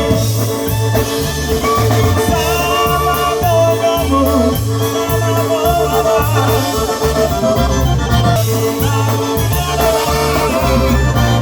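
Live polka band playing an instrumental stretch of a Polish-language polka, with accordion over a steady bass beat about twice a second.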